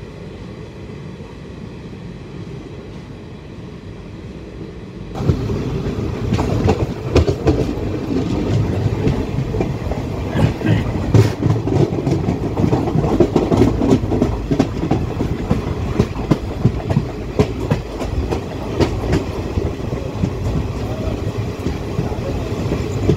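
Indian Railways passenger coach running along the track, heard from its open doorway: a steady rumble of wheels on rail, with frequent clicks and clatter as the wheels pass over rail joints. About five seconds in, the sound jumps suddenly louder and stays that way.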